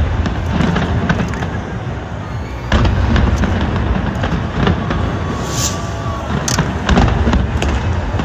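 Fireworks display going off in a continuous barrage of booms and crackling bangs, with heavier bursts about three seconds in and again about seven seconds in.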